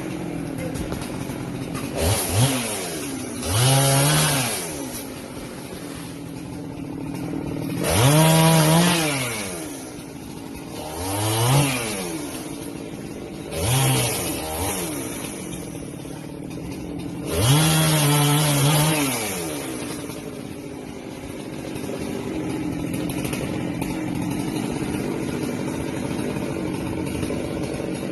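Husqvarna 390XP two-stroke chainsaw idling, revved up sharply about six times and dropping back to idle each time, then running steadily near the end.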